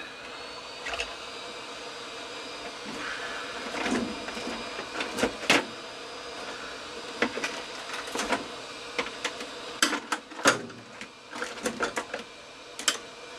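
A heat gun blowing steadily after being switched on, softening the glue around a plastic post. Sharp clicks and knocks of hand tools against hard plastic come through it, several of them loud in the second half.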